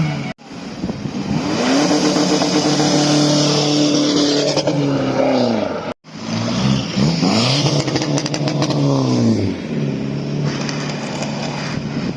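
Car engine being revved hard: it climbs and holds high for a few seconds, then drops. After a sudden break about six seconds in, it gives several quick blips up and down before settling at a steadier speed.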